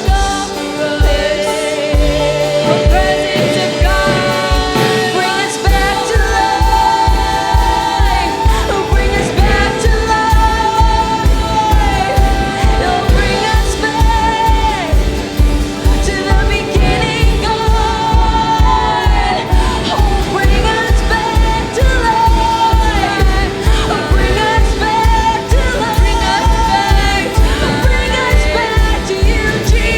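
Live worship music: voices singing long, held lines over a band, with a steady low drum beat that settles in about six seconds in.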